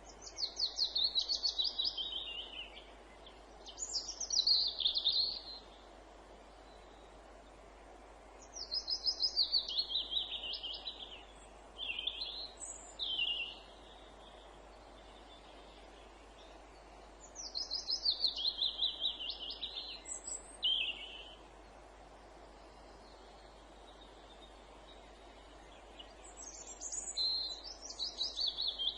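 A chaffinch singing its song, a rapid run of repeated notes falling in pitch and ending in a flourish, four times about nine seconds apart, with shorter bird phrases in between. A faint steady hiss of woodland ambience lies underneath.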